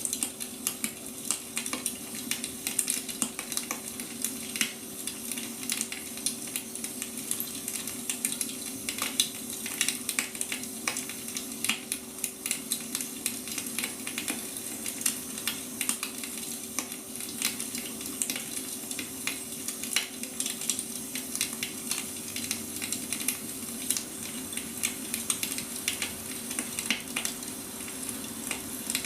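Wood fire burning, a steady hiss with dense, irregular sharp crackles and pops, over a steady low hum.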